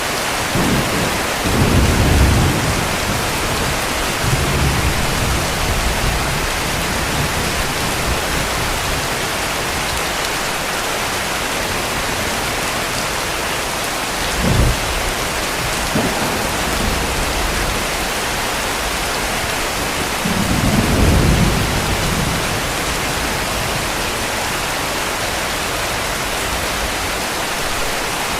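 Steady heavy rain hiss with thunder: low rolling rumbles about two seconds in, again around five seconds and around twenty-one seconds, and a short sharp crack about halfway through.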